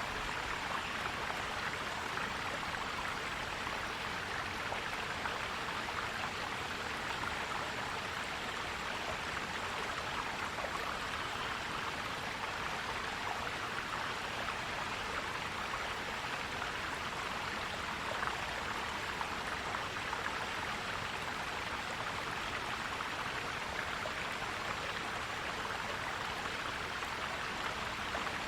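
Forest stream flowing over rocks, a steady gurgling rush of water.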